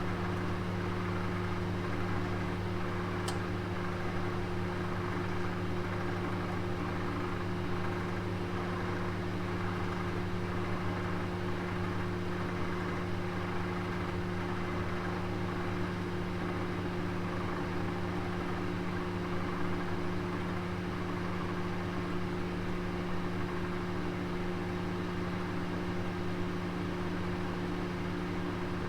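Oven running with a roast cooking inside: a steady low hum with an even whir over it. A single faint tick comes about three seconds in.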